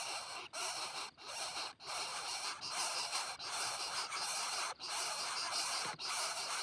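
Coucal chick giving harsh rasping hisses, one after another, each broken off by a short pause.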